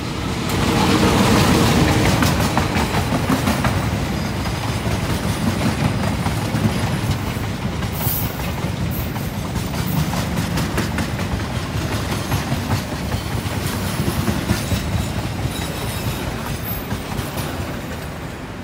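A passenger train passing close by: the CC 201 diesel-electric locomotive's engine goes by loudest about a second in, then the coaches follow with a clatter of wheels over the rail joints, fading near the end as the last coach passes.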